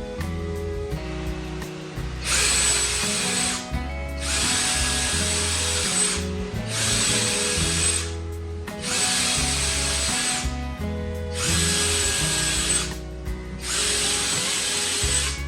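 A power tool running in six bursts of about one and a half to two seconds each, with short pauses between, over background music.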